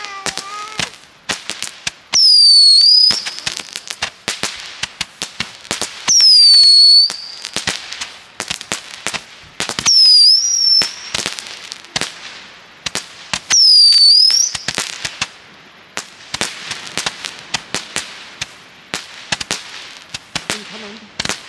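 Fireworks going off: four high whistles about four seconds apart, each about a second long, dipping then rising in pitch. Many sharp crackling pops run throughout.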